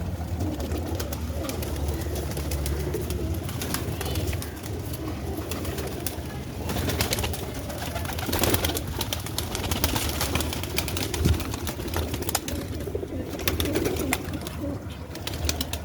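Domestic pigeons cooing, with many scattered sharp clicks and a louder flurry about eight seconds in.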